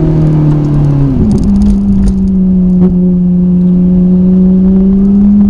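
Ferrari 458's naturally aspirated V8 through a Capristo aftermarket exhaust, running on the road. The engine note dips and breaks briefly about a second in, then holds a steady tone that climbs slightly.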